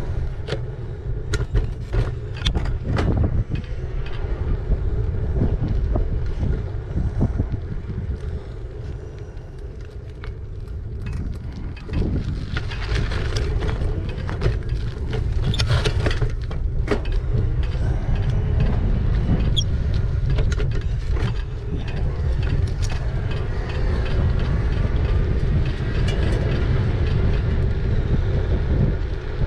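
Riding noise on a moving e-bike: a steady low rumble of wind on the microphone and tyre noise, with many short clicks and rattles from the bike over the road. It eases off for a few seconds in the middle, then grows louder again from about twelve seconds in.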